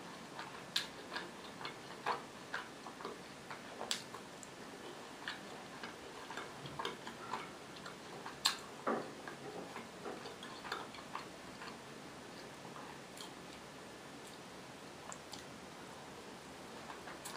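Close-miked mouth sounds of someone chewing crispy fried potato: moist crunching with many small sharp clicks and crackles. They are dense for about the first ten seconds, then thin out to only an occasional click.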